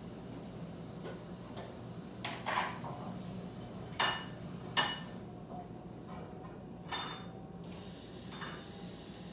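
About six light, separate clinks and taps of something hard striking metal or glass, each with a short ringing tone, over a faint low steady hum.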